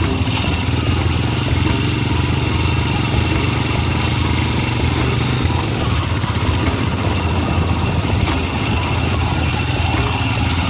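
Motorcycle engine running steadily while riding, with a broad steady noise over it.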